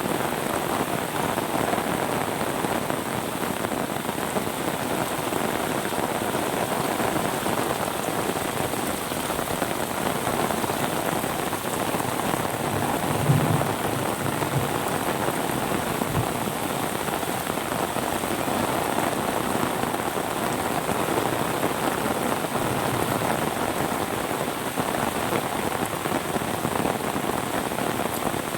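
Steady rain falling and pattering on surfaces, with a brief low thud about halfway through.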